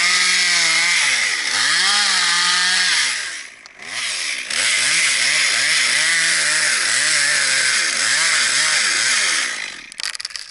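Two-stroke chainsaw cutting into cottonwood, its engine pitch sagging and recovering again and again as the chain bites into the wood. It eases off briefly a few seconds in, runs on, and stops near the end.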